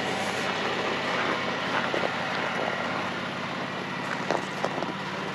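Jeep engine running steadily at idle, a low hum with a few faint clicks.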